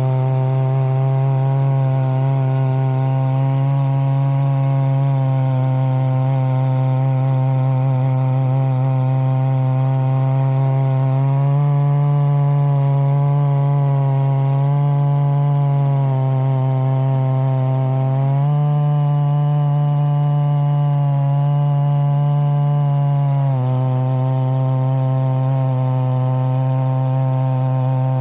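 Holzfforma two-stroke chainsaw on a chainsaw mill, running steadily under load as it rips a log into boards. Its pitch steps up slightly twice and settles back each time as the load eases and returns.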